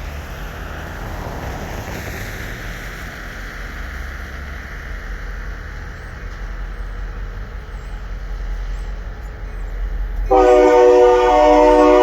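Low steady rumble of a Union Pacific train, then about ten seconds in a diesel locomotive's air horn starts a loud, held blast of several steady tones sounding together as a chord.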